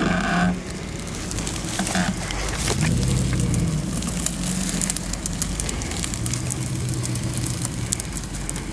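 Jeep engine running at low revs, its pitch rising and falling briefly about three seconds in, with scattered crackling and knocks throughout.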